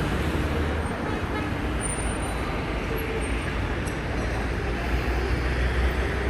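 Busy city street ambience: a steady din of road traffic with a low rumble underneath.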